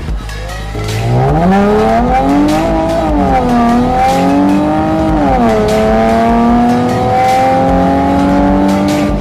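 Porsche Panamera S engine and exhaust accelerating through the gears: the note rises in pitch from about a second in, drops sharply twice at upshifts, about three and five and a half seconds in, then climbs slowly again.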